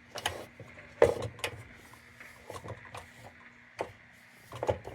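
Scattered light clicks and knocks from a restored tin lantern being handled, over a faint steady hum.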